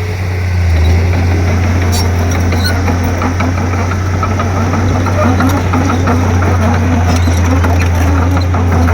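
Komatsu D31P crawler bulldozer's diesel engine running steadily with a deep drone, with scattered clicks and clanks over it.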